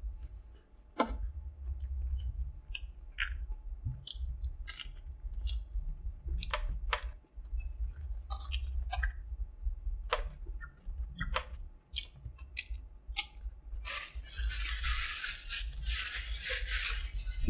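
Close-up chewing of a crispy chicken sandwich, with scattered wet clicks and crunches from the mouth. About fourteen seconds in, the sandwich's paper wrapper starts crinkling continuously.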